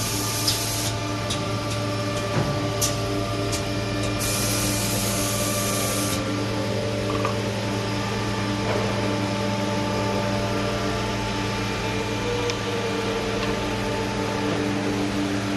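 Factory machinery running with a steady hum, with two hissing bursts of about two seconds each, one at the very start and one about four seconds in, and a few light clicks.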